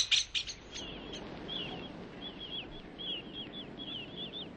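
A common blackbird's rapid, clicking alarm chatter dies away in the first half second. Then come many short, repeated high chirps from small birds over a steady low background rumble.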